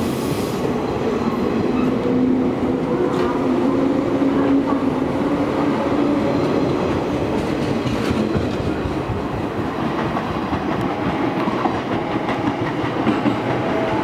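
JR 183 series electric multiple unit pulling out of a station and picking up speed as its cars run past, a loud steady rumble of wheels on rail. A steady drone sits under it and fades out about six seconds in.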